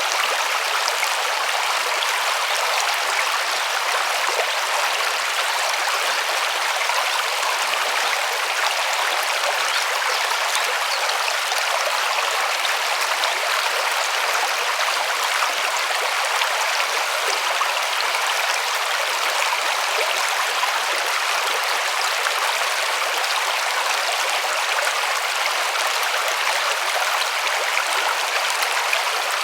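A river flowing over rocks: a steady rush of water, even and unbroken.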